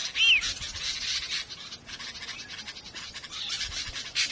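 Birds calling: fast raspy chattering, with a short arched whistled note near the start. The chattering eases in the middle and picks up again near the end.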